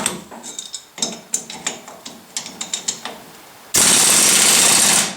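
Metal clicks and clinks of a wrench and lug nuts on a wheel stud, then a loud burst of about a second and a half from an impact wrench driving two lug nuts tight against each other on the stud.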